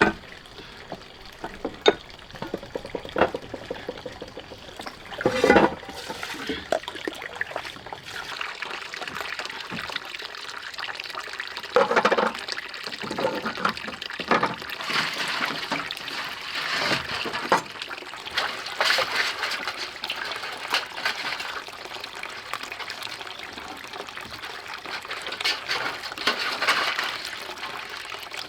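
Water splashing, pouring and trickling in uneven bursts, with a few sharp knocks along the way.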